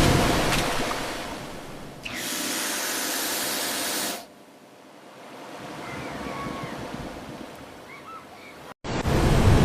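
Rushing floodwater noise in several abruptly cut segments: a loud stretch fading, a steady hiss-like stretch from about two seconds in, then a quieter stretch with faint short chirps, and a sudden loud return near the end.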